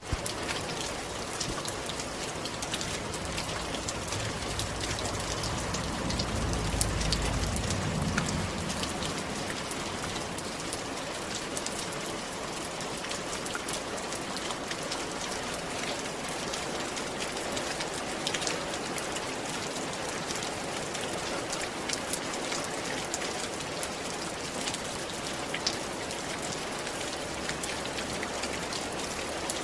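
Steady rain on a roof: a dense hiss of drops with many sharp individual drop hits. A low rumble swells and fades about five to eight seconds in.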